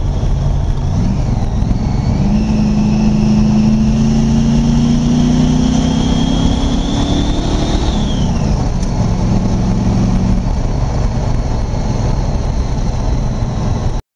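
Supercharged engine of a blown Mazda RX-7 under way, heard from inside the cabin. Its revs step up about a second in, then climb steadily for several seconds with a high whine rising alongside. About eight seconds in they fall away, and the engine runs on at a steady cruise until the sound cuts off abruptly at the very end.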